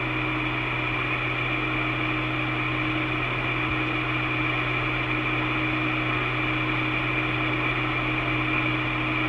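Steady hiss with a constant low hum and faint steady tones from a recorded railway radio channel left open between transmissions.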